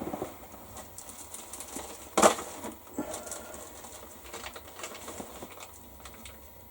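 Plastic model-kit sprues being handled: scattered light rustling and clicking of plastic, with one louder clatter about two seconds in.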